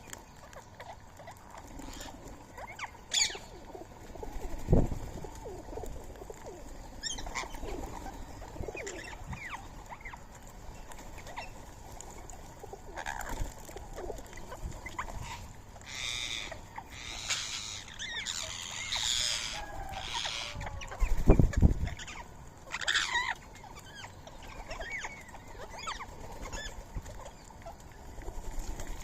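Rose-ringed parakeets calling at a feeding spot: scattered short, harsh calls, thickest in a burst of screeching past the middle. Two dull low thumps, one early and a louder one about two-thirds through.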